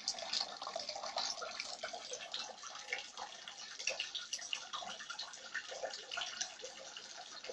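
Flood water splashing and dripping: a steady patter of many small, irregular drips and splashes.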